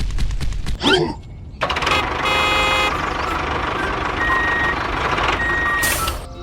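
A small engine putters in rapid even ticks, then a vehicle runs with a heavier mechanical noise. Over it, a reversing beeper gives two long beeps about a second apart.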